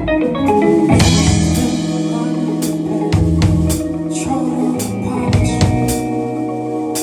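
Live band playing the intro of a song: guitar and bass with a drum kit that comes in with a crash about a second in, then a steady beat.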